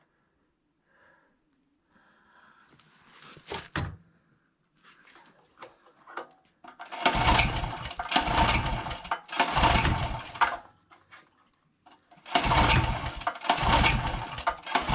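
Champion portable gas generator being pull-started in deep cold: repeated recoil pulls cranking the small engine, three in a row in the middle and three more near the end, each about a second long. The cold engine is not yet running steadily.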